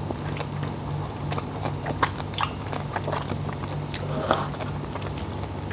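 Close-miked chewing of a mouthful of raw seafood and rice dressed in fish sauce: wet mouth clicks and small crunches coming irregularly, over a low steady hum.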